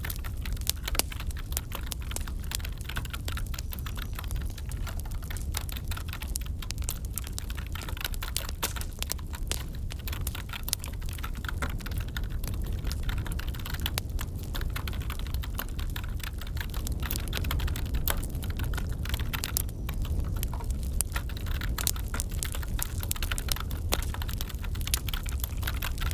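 Wood fire crackling and popping over a low rumble, mixed with the quick clicks of computer keyboard typing.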